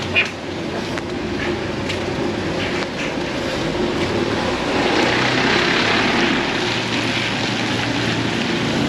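A motor vehicle's engine running in steady heavy rain, with a watery hiss that swells about halfway through. There is one sharp knock at the very start.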